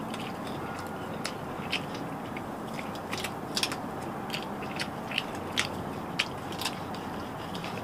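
Close-miked mouth sounds of a man chewing and biting into braised chicken adobo held in his hands: irregular short smacks and clicks over a steady background hiss.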